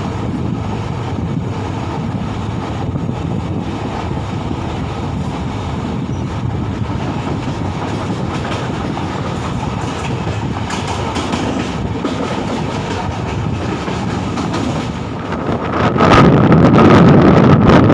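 Indian express train passenger coach running on rails as it picks up speed: steady wheel rumble with scattered clicks over rail joints. About 16 s in, the sound jumps much louder and heavier.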